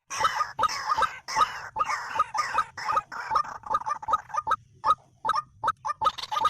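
White-breasted waterhen (dahuk) calling: a rapid run of repeated calls that thins out and pauses briefly about five seconds in, then picks up again.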